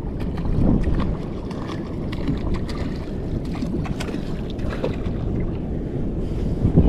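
Steady wind buffeting the microphone and water noise aboard a small fishing boat, with scattered small clicks.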